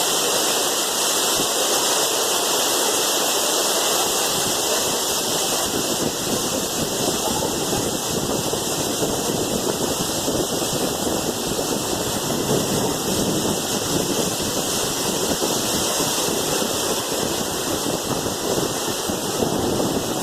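Heavy rain mixed with hail pouring down: a dense, steady hiss of drops and hailstones striking.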